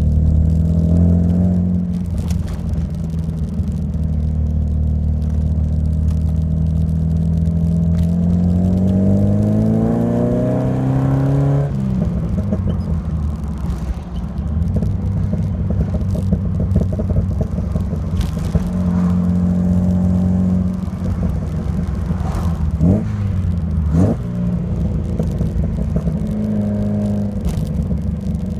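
Alfa Romeo Alfasud Sprint QV's 1.5-litre flat-four boxer engine running through a stainless steel exhaust. The revs climb steadily for several seconds and drop off abruptly about twelve seconds in, rise briefly again later, and near the end it takes two quick sharp blips of the throttle.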